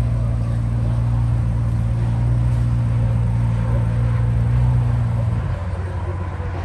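A car engine idling steadily at low pitch. It falls away about five and a half seconds in.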